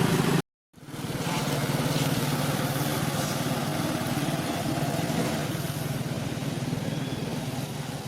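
Steady low motor hum, like an engine running at an even speed, broken by a brief dropout to silence about half a second in.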